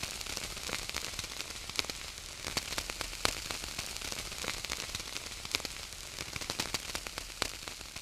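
Wood fire burning: dense, irregular crackling and popping over a steady hiss.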